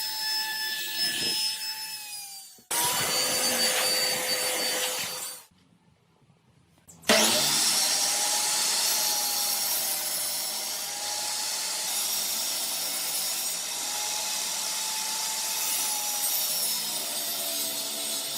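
Electric power tools running on wood, a motor whine over cutting or sanding noise, in three stretches that start and stop abruptly with a short near-silent gap just before the middle. In the last and longest stretch the motor's pitch wavers slightly as the tool is worked against the wood.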